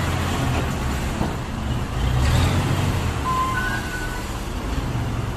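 Truck's engine running steadily with a low rumble, with two short high tones a little past three seconds in.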